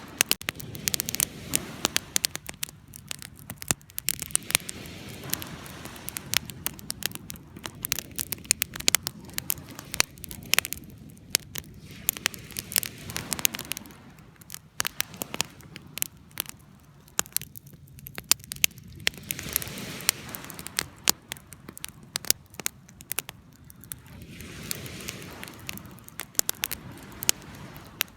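Wood campfire crackling, with many sharp irregular pops over a soft rushing that swells and fades every few seconds.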